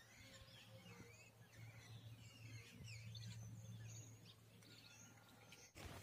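Faint birds chirping in short repeated calls over a quiet outdoor background with a steady low hum.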